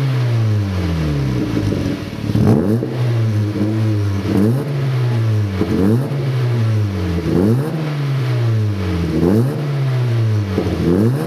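Honda Fit GE8's 1.5-litre four-cylinder blipped repeatedly through a Noblesse racing bullet-type aftermarket muffler: about six quick revs, each rising sharply and falling back, with the exhaust note echoing in a garage.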